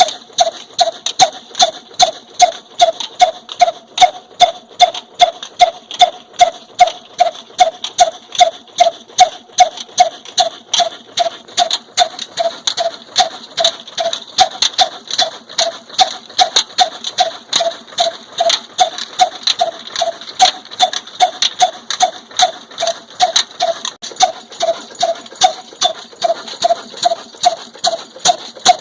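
Old black single-cylinder desi diesel engine of the Ruston type running steadily with a sharp, even beat, about two to three strokes a second, each with a short metallic ring, while driving a chakki flour mill.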